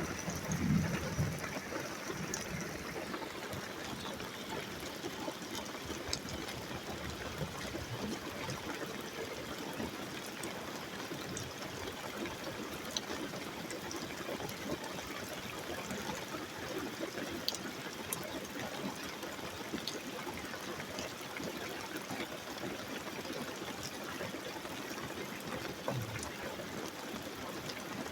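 Steady storm rain falling, an even hiss with scattered faint drip ticks. A brief low thump about a second in and a weaker one near the end.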